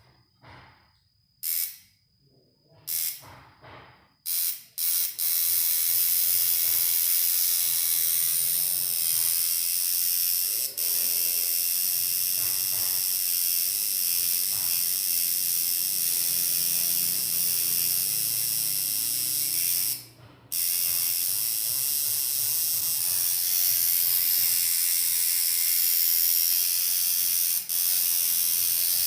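Homemade coil tattoo machine buzzing: switched on in a few short blips, then running steadily, with a brief cut-out about twenty seconds in.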